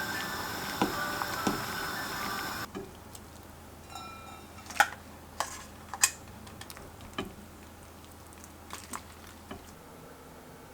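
A steady noise stops abruptly about two and a half seconds in. Scattered light clicks, taps and clinks of kitchenware follow, one of them ringing briefly.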